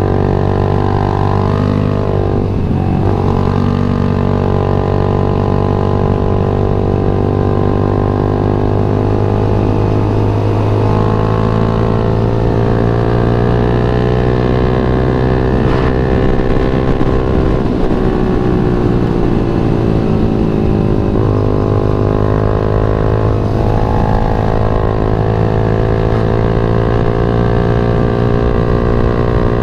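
Yamaha MX King 150's single-cylinder four-stroke engine running steadily under way, its pitch rising and falling gently with the throttle.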